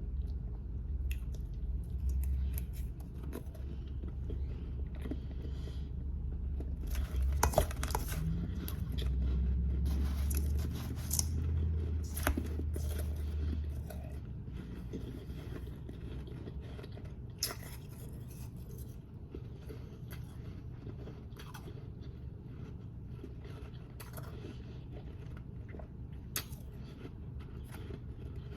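Close-miked chewing of powdery ice: crisp crunches and bites, densest in the first half and sparser and quieter after that.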